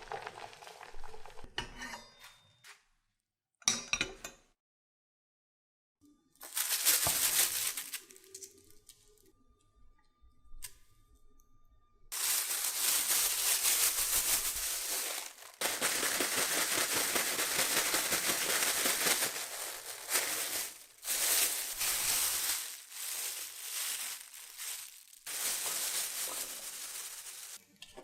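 Cooking sounds from preparing Korean corn dogs: utensils and dishes clinking in short bursts, then from about halfway a steady hiss in long stretches with brief breaks.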